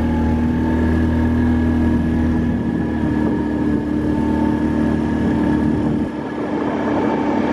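A motor vehicle's engine running steadily, with a constant droning pitch; the low rumble drops off about six seconds in.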